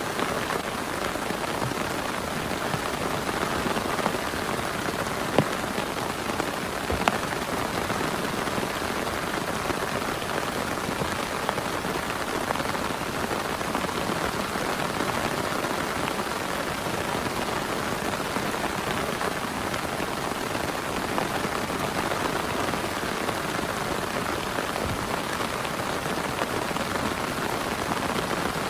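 Steady heavy rain, a dense patter of drops with a few sharper, louder drop hits about five and seven seconds in.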